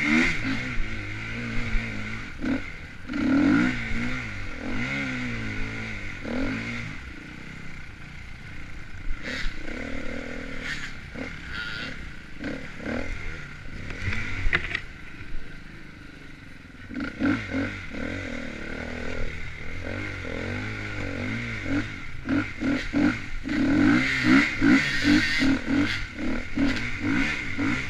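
Dirt bike engine revving up and down again and again as the throttle opens and closes, with scattered clattering knocks from the bike working over rough trail. It eases off briefly about midway and gets busier again near the end.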